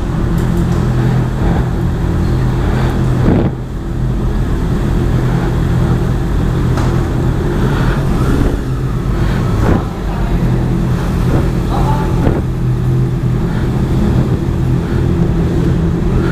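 Big-bike motorcycle engine running steadily at low revs, its even hum dipping briefly twice.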